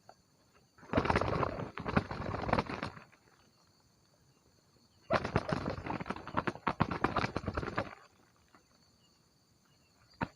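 Two bursts of quick crunching and rustling in dry vegetation, the first about two seconds long starting about a second in, the second nearly three seconds long in the middle, with quiet between.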